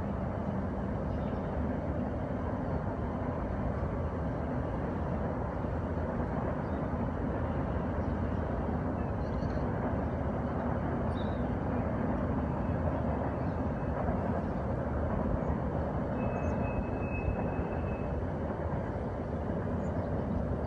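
Steady rumble of a CSX freight train of empty cars rolling past out of sight. A faint high tone lasts about two seconds late on.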